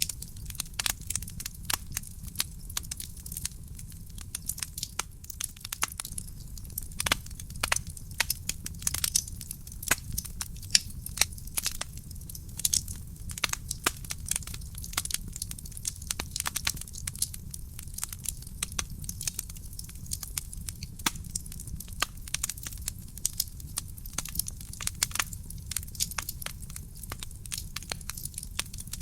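Wood fire crackling in a fireplace: a constant scatter of sharp pops and snaps over a low steady rumble of the burning.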